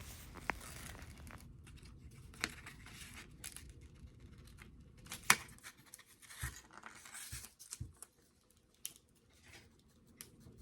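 Adhesive vinyl decals being peeled off their backing sheet: faint, intermittent crackling and rustling with a few sharp clicks, the loudest about five seconds in. It dies down almost to nothing near the end.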